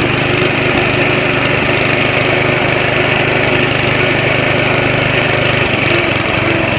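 Riding lawn mower's small engine running steadily, its note shifting slightly near the end.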